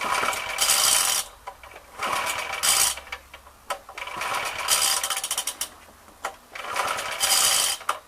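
Four pulls on the starter cord of a Suffolk 75cc four-stroke sidevalve lawnmower engine, each about a second long with a rattling whir of the engine being turned over, without it catching; the owner suspects carburettor problems.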